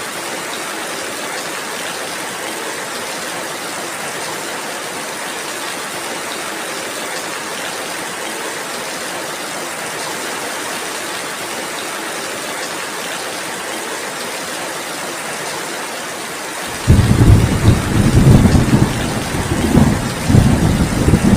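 Steady rain falling, a continuous hiss. About seventeen seconds in, a loud, deep rumble of thunder sets in suddenly and goes on, swelling and fading.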